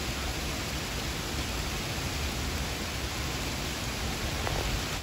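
Steady rain falling on a paved street and lawn, an even hiss.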